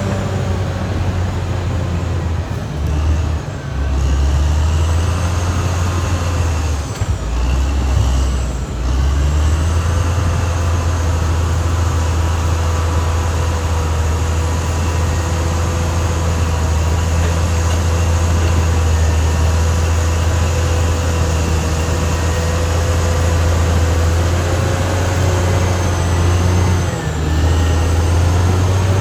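Caterpillar D6R XL bulldozer running under load, a steady deep diesel rumble with a high whine over it. The engine note dips briefly three times, about 3, 8 and 27 seconds in, then recovers.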